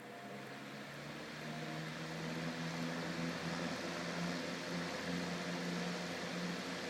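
1930s G.E. 12-inch table fan with a shaded-pole motor spinning up on its high speed after switch-on. The motor hum and the rush of air from the blades grow louder over the first few seconds, then settle into a steady run at full speed.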